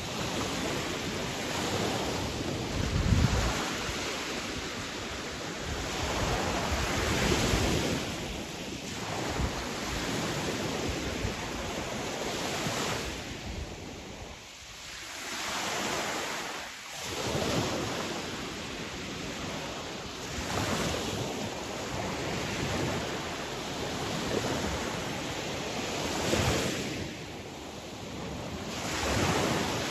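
Sea waves breaking and washing on the shore, the surf swelling and ebbing every few seconds, with wind noise on the microphone.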